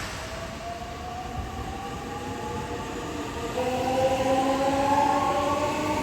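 Electric train's traction motors whining, several tones rising steadily in pitch and growing louder about halfway through, over a steady rumble as the train accelerates.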